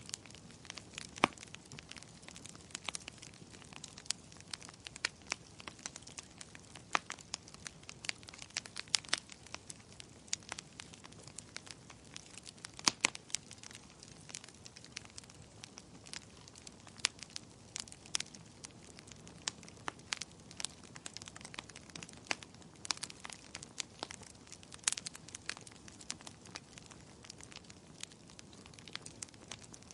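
Wood fire crackling in a fireplace: irregular sharp pops and snaps, some louder than others, over a soft steady hiss of the flames.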